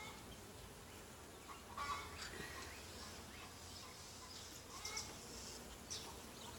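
Faint, scattered bird calls over low background noise, with a few short calls about two seconds in and more brief chirps later.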